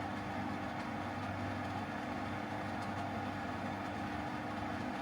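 EENOUR PA600 portable air conditioner running: a steady hum from its compressor and fan.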